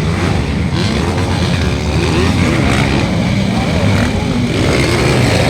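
Several motocross dirt bikes running on the track, their engines revving up and down.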